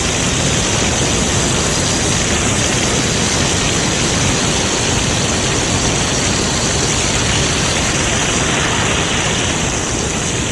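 Fire hoses spraying high-pressure jets of water: a steady, loud rushing hiss.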